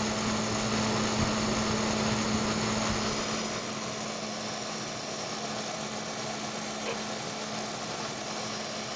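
Cooling fan inside a PC case running with an abnormal "shaka-shaka" rattling noise, not its normal sound, which points to a faulty fan. It runs steadily over a low hum.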